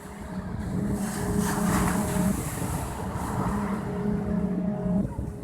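Boat engine running steadily, a low hum with a fixed pitch that dips briefly about five seconds in.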